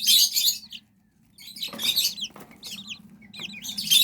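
Young chicks, 24-day-old Serama and white silkie, peeping in bunches of quick, high chirps with short pauses between.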